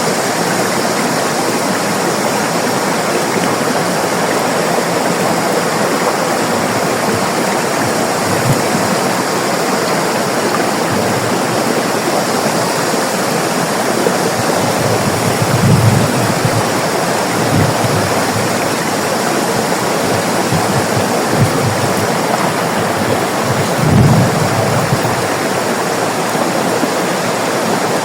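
River water flowing in a steady, full rush. A few soft low thuds break through, the strongest about halfway and again about two-thirds of the way in.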